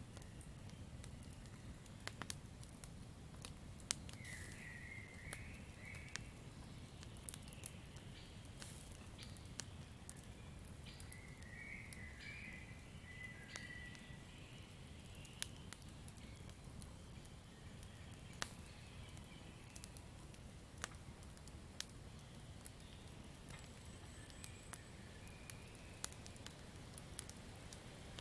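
Campfire crackling, with scattered sharp pops and snaps over a low steady rumble of the burning wood. Short bursts of high chirping calls come and go a few times.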